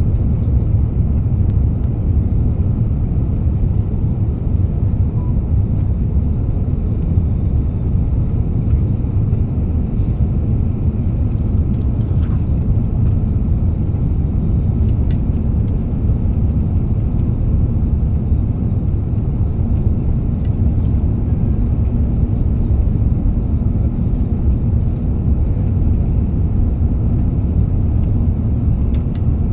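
Steady low rumble of cabin noise inside an Airbus A350: engine and airflow noise, with a few faint ticks.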